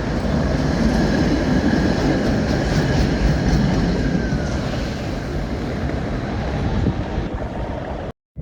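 Rail vehicle running past with a steady rumble, and a faint whine that dips in pitch about four seconds in; the sound cuts off suddenly near the end.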